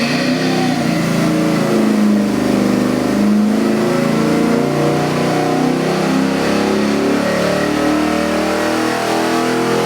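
A 427-cubic-inch LS V8 crate engine running loudly during its run-in demo, its engine speed rising and falling a little.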